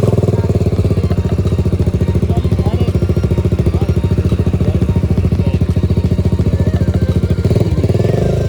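Single-cylinder motorcycle engine idling with a rapid, even exhaust beat, swelling slightly near the end.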